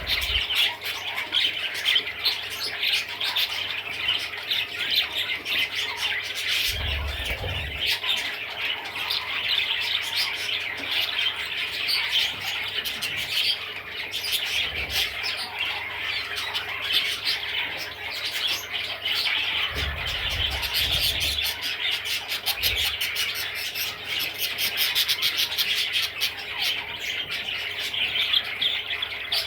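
Budgerigar chattering continuously, a dense run of quick chirps and squawky warbling notes with no pauses.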